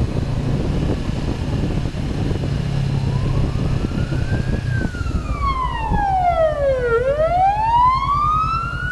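Emergency vehicle siren starting about three seconds in: one slow wail that rises, sweeps down to a low point and climbs again. Under it runs a steady engine hum.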